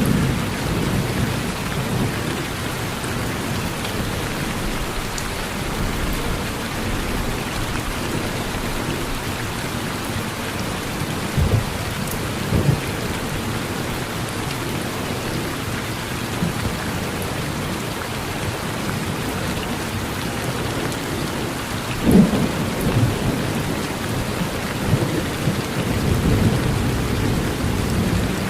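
Steady rain falling on a porch, with low thunder rumbles rising out of it: short ones about 11 and 13 seconds in, a stronger one about 22 seconds in, and a longer rumble near the end.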